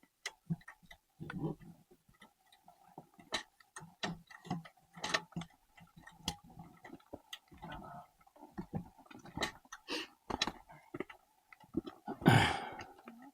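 Irregular clicks and knocks at an uneven pace, over a faint steady tone, with one louder thump near the end.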